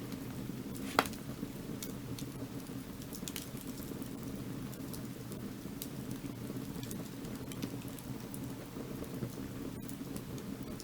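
Burning firewood crackling, with scattered sharp snaps and one loud pop about a second in, over a steady low rushing.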